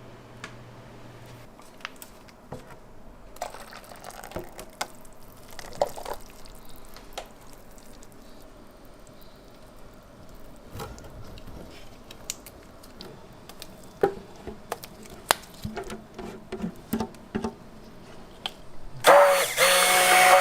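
Food-preparation handling: scattered light clicks and knocks of utensils and containers. Near the end, a loud electric appliance starts up with a steady whine over a rushing noise.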